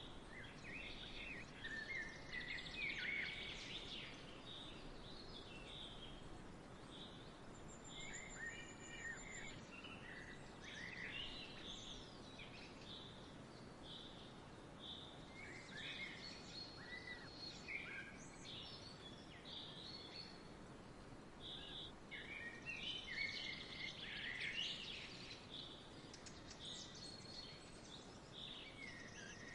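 Songbirds chirping and singing, short phrases coming one after another, over a soft steady outdoor background hiss.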